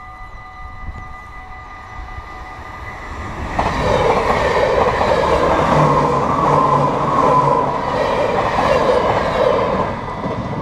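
Level-crossing warning bells ringing with steady tones. About three and a half seconds in they are drowned out as an ICMm (Koploper) electric intercity train passes the crossing at speed. The train's loud passing noise dies away near the end.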